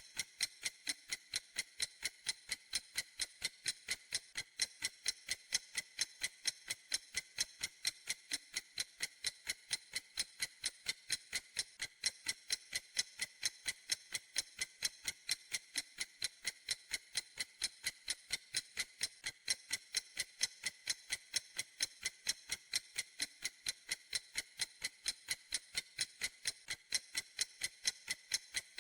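Clock ticking steadily in a quick, even rhythm of a few crisp, bright ticks a second.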